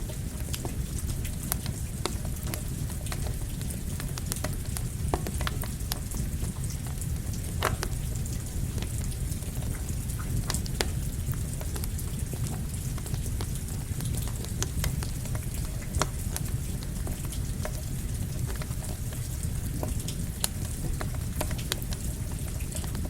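Steady rain together with a crackling campfire: an even hiss and low rumble under many scattered sharp crackles and pops.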